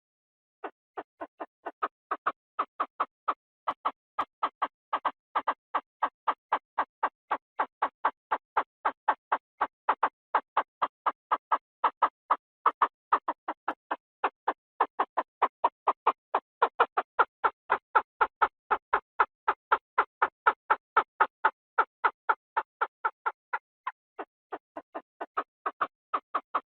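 Field quail (นกกระทาทุ่ง) calling: a long, even run of short, clipped notes, about three or four a second, with a brief break near the end, as used on a recording to lure the birds.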